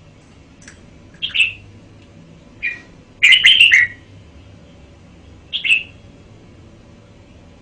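Red-whiskered bulbul singing: a few short whistled phrases, with one longer, louder warbled phrase about three seconds in.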